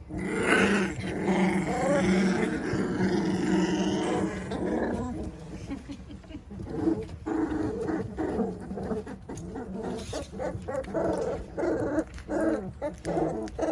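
A litter of three-week-old Labrador retriever puppies play-growling as they wrestle together. The growls overlap thickly for about the first five seconds, then break up into shorter separate growls.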